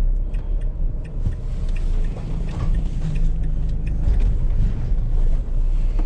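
Vehicle driving slowly, a steady engine and road rumble heard from inside the cab, with light rattles and clicks over it.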